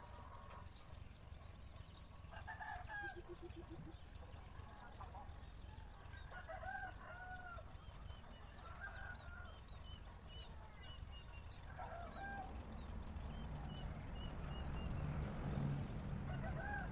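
Birds calling: short calls repeated every few seconds, with faint high chirps between them. A low rumble and hiss grow louder near the end.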